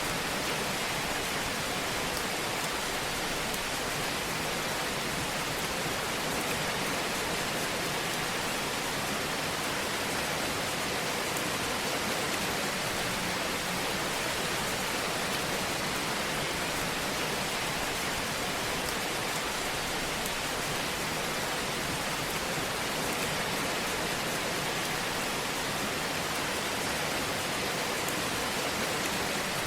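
Fire burning in a fireplace: a steady, even hiss that does not change.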